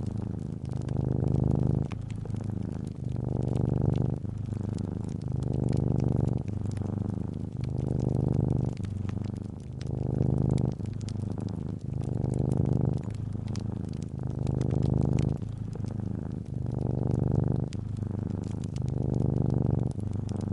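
Domestic cat purring steadily, the low buzz swelling and easing with each breath about every two seconds, with faint crackles from a fireplace fire.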